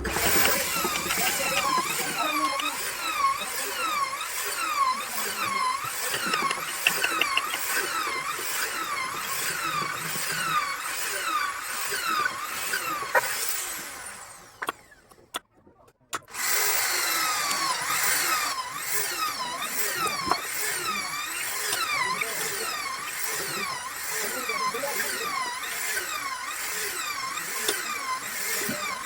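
Electric power tool running on wood, its pitch dipping and recovering in a regular rhythm. It winds down about 14 seconds in, then starts up again about two seconds later.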